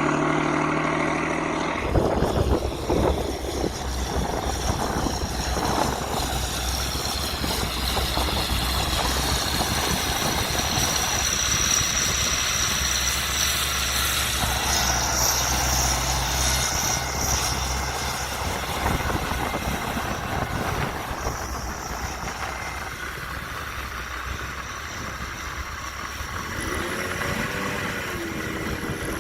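Heavy diesel engine of a Kirovets K-700-series tractor running steadily: a deep rumble under a broad rough noise. About two seconds in, the sound changes abruptly from a smoother engine hum to this rougher one.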